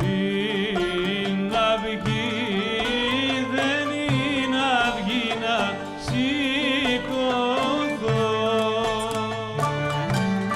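Live Byzantine music: a singer's ornamented melody with vibrato and quick runs, over a low held drone, with plucked-string notes throughout.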